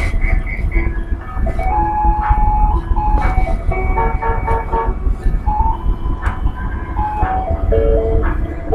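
Ice cream truck's electronic jingle playing a simple melody of clear single notes, over the steady low rumble of the truck running.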